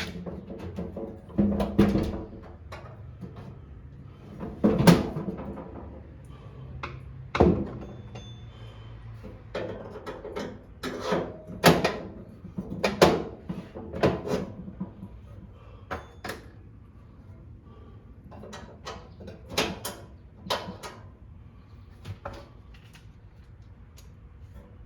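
A run of irregular knocks and clanks, some with a short ring, as tools and parts are handled during work on a lawn tractor.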